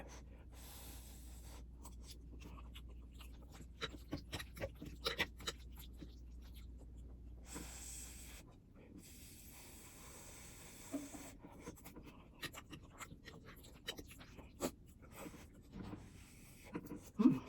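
Quiet eating sounds: chewing with scattered soft clicks and scrapes of a utensil on a dish, over a faint low hum that stops about halfway through.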